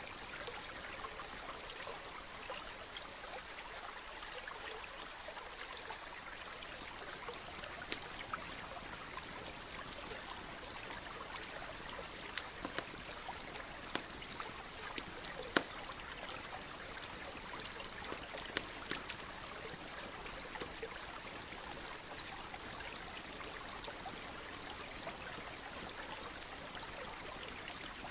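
Campfire crackling, with scattered sharp pops over the steady rush of a nearby stream.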